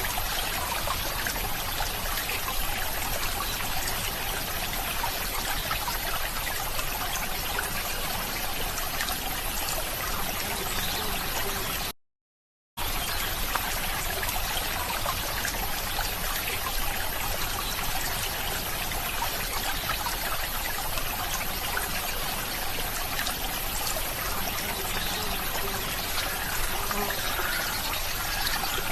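Water trickling steadily, like a small stream running over stones. It drops out completely for under a second about twelve seconds in, then resumes unchanged.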